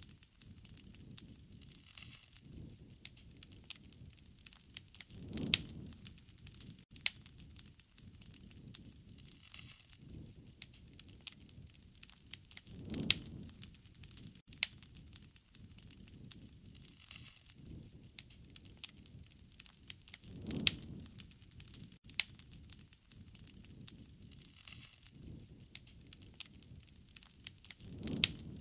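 Bonfire burning: wood crackling and popping in sharp irregular snaps over a low rush of flames. The flame rush swells louder about every seven to eight seconds.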